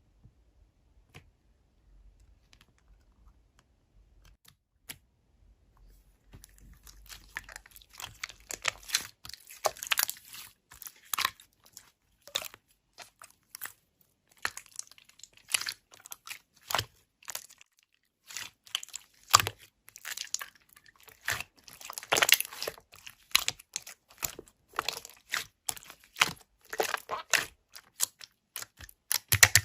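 Close-up crinkling and crunching: a few isolated clicks, then from about six seconds in a dense, irregular run of sharp crackles.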